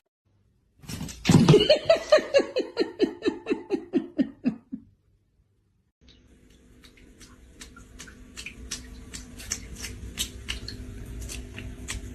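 A person laughing hard: a fast run of about fifteen 'ha's falling in pitch, lasting a few seconds. After a short gap come faint, quick clicks or taps.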